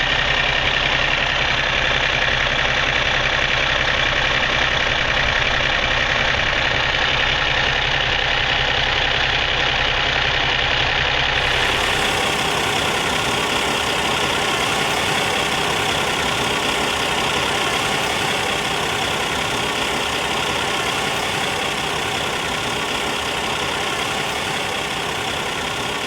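Kenworth truck's diesel engine idling steadily. About eleven seconds in the sound changes abruptly: the deep low end drops away and a steadier, hissier running sound carries on.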